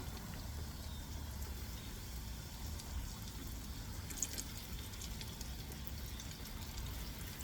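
Chicken nuggets frying in hot oil: a steady, faint sizzle with scattered crackles, over a low hum.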